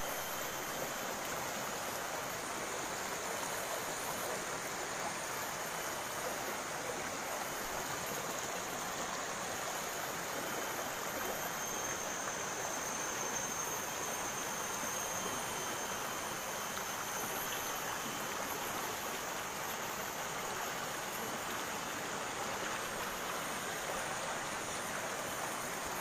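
Steady rush of a waterfall and its stream, an even unbroken water noise.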